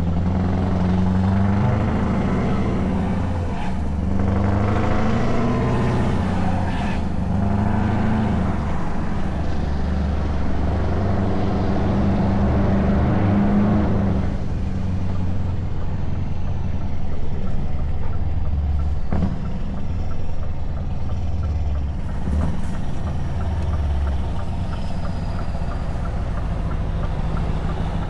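Scania S truck engine with open exhaust pipes running under way, its pitch rising and falling as it pulls. About halfway through it eases off and runs more quietly with a low rumble.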